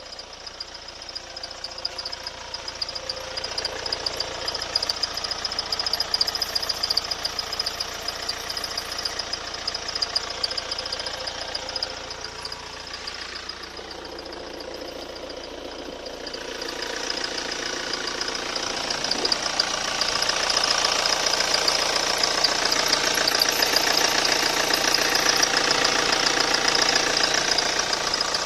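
D4HA diesel engine running with a steady high-pitched whistle from the area of the accessory drive belt. The engine and the whistle grow louder a little over halfway through.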